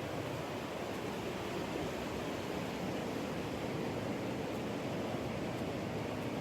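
Ocean surf washing onto the shore, an even, unbroken rush of noise.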